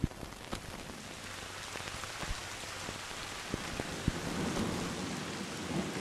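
Steady rain falling, with scattered drops ticking sharply. A low rumble of thunder starts to swell near the end.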